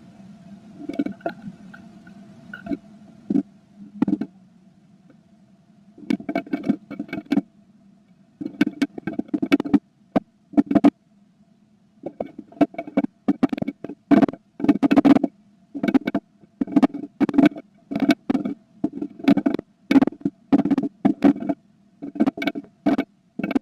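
Blue tit scrabbling and pecking inside a nest box, giving bouts of close scratching and rustling of nest material with sharp taps, heard over a steady low hum.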